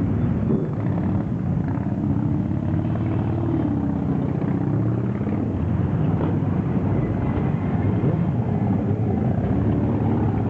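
A large group of motorcycles running together: a steady, dense engine rumble with many overlapping engine notes that rise and fall as individual riders rev and pull away.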